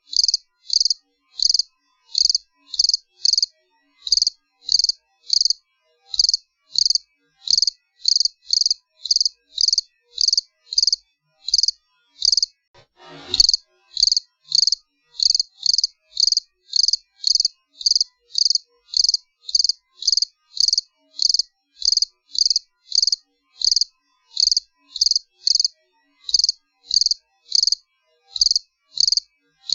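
Cricket chirping steadily, short high-pitched chirps repeated evenly at about two a second. A single brief knock sounds about halfway through.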